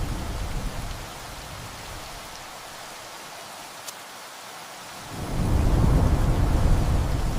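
Steady rain with rolling thunder. A low rumble dies away in the first second, leaving the rain hiss alone, and a new roll of thunder swells about five seconds in.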